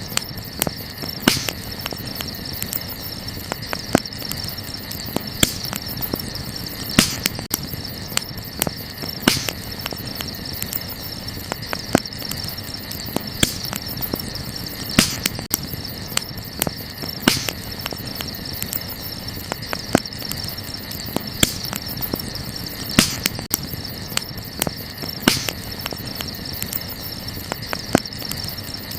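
Wood fire crackling, with sharp pops every second or two over a steady hiss. Behind it runs a steady high chirring of night insects.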